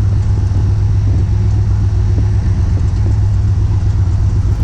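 A car engine idling with a steady, loud low rumble.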